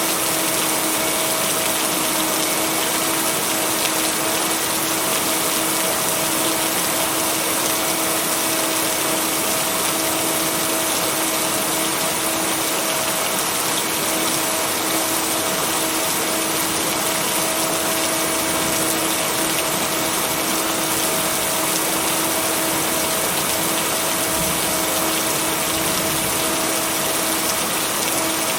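Steady, even rain with a constant low hum running underneath it.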